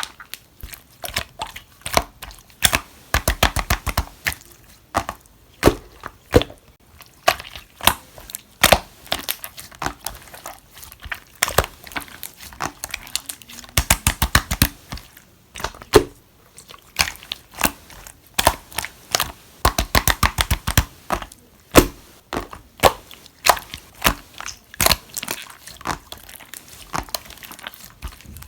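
Green clear slime being squeezed, folded and pressed by hand, giving irregular runs of sharp clicks and wet pops as air pockets burst, with quick rapid-fire clusters now and then.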